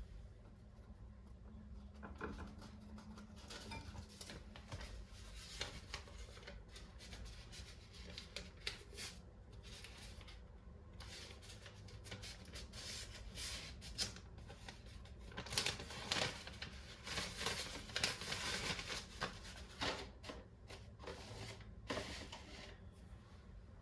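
Indoor handling sounds: irregular rustling with light clicks and taps as small objects are moved about, busier in the second half.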